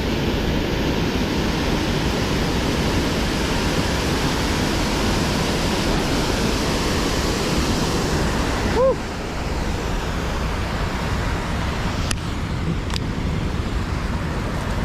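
Steady rush of water pouring out of a spillway chute, an even roar with no pauses.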